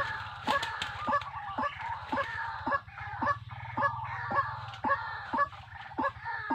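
A bird call, a short note repeated steadily about twice a second, over a steady low hum.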